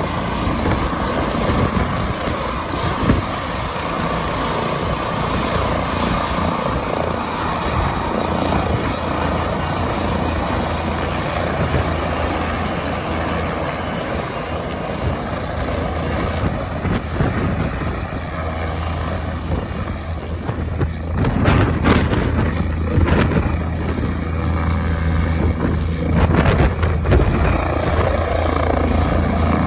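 Leonardo AW169 helicopter running at take-off power: its twin turboshaft engines give a steady high whine over the rotor noise. About two-thirds of the way through it gets louder, with several surges of rushing noise.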